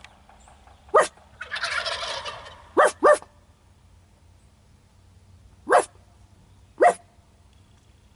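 Jakes (young male wild turkeys) gobbling: one rattling gobble about a second and a half in. Five short, sharp calls are scattered around it.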